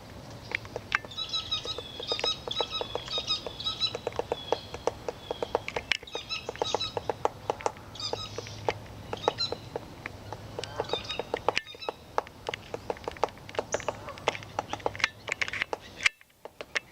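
Male downy woodpecker pecking at wood: many sharp, irregular taps in quick clusters. Short high bird chirps come in over the first few seconds.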